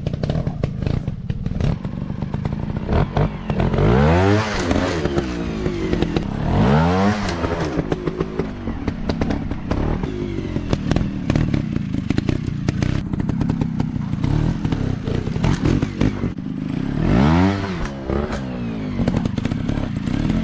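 Small dirt bike engine revving up and dropping back repeatedly, three strong rev sweeps among lower throttle, with frequent clattering and knocking over the top.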